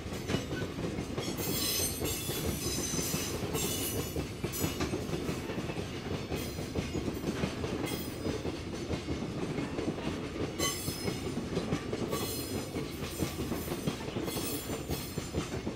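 Container flatcars of a freight train rolling past: a steady rumble of wheels on rail with clickety-clack over the joints, and short high-pitched wheel squeals coming every second or two.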